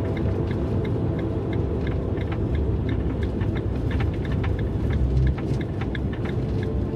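Fiat Ducato camper van driving, a steady low rumble of diesel engine and tyres, with faint irregular ticking over it.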